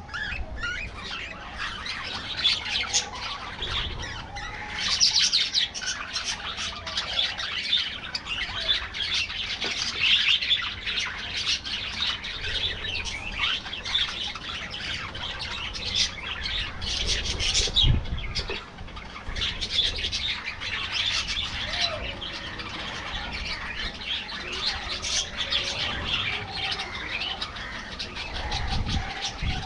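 A flock of budgerigars chattering and warbling continuously, many short chirps and squawks overlapping.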